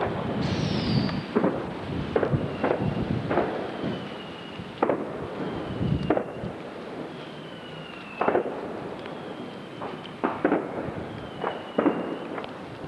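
Fireworks going off in quick succession: a dozen or more sharp bangs and cracks, with short whistles that fall slightly in pitch, about every second and a half.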